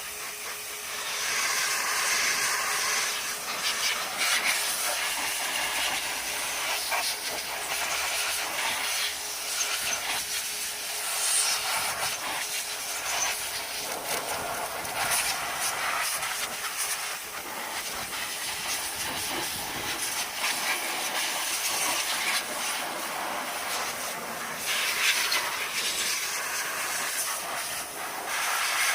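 A pressurised cleaning jet hissing steadily on an engine bay, its level rising and falling as it is moved, over a faint steady hum from the machine.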